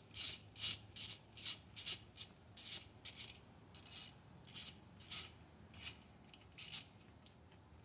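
Repeated short rasping strokes of a hand tool worked on an engine part, about fifteen of them at roughly two a second, stopping about seven seconds in.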